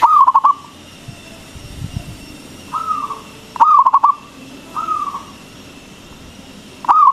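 Zebra dove (perkutut) singing its loud cooing song. Three quick runs of rolling coos come about three and a half seconds apart, at the start, in the middle and near the end, with a softer single sliding coo between each.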